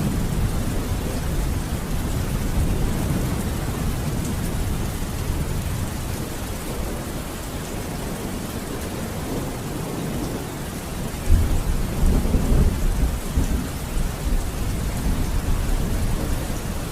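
Steady heavy rain with rolling thunder in the background. About eleven seconds in, a louder thunderclap breaks suddenly and rumbles on for a few seconds.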